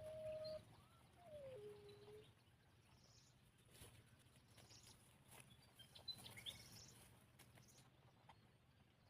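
Faint bird calls: two drawn-out notes near the start, the second sliding down in pitch, then brief high chirps about six seconds in, with a few light clicks.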